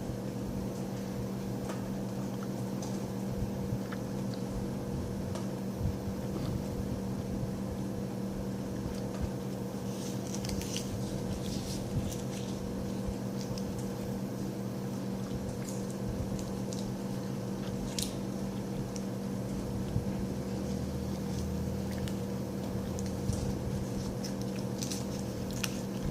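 A person chewing a hard fruit gummy: faint scattered mouth clicks and squishes over a steady low hum.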